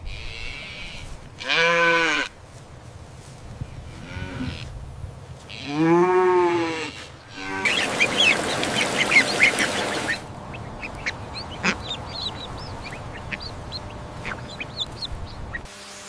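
An animal calling twice, each a drawn-out call about a second long that rises then falls in pitch, the calls about four seconds apart. A loud rushing noise follows for about two seconds, then short high chirps scattered through the rest.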